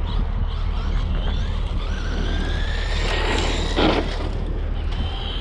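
Electric motor of a Traxxas radio-controlled truck whining as it drives, its pitch rising as it speeds up. A brief, louder rough burst of noise comes a little under four seconds in.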